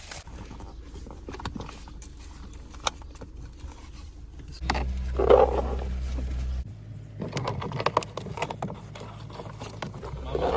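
Handling noise from unpacking and fitting plastic car accessories: scattered clicks, taps and scraping. A low hum comes in for about two seconds near the middle.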